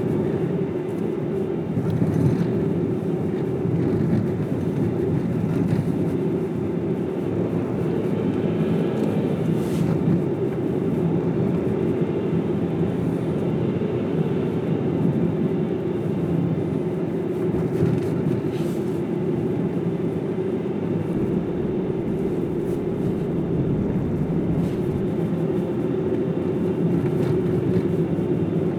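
A car driving at steady speed: an even, low hum of tyres on the road and engine, with no change in pace.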